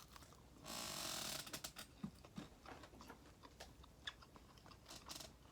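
Faint chewing of a chicken nugget dipped in melted cheese: a short soft burst of noise about a second in, then scattered small mouth clicks.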